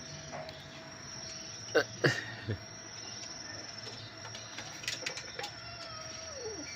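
Birds calling: three quick falling calls about two seconds in, then a few softer calls, over a steady high-pitched background tone.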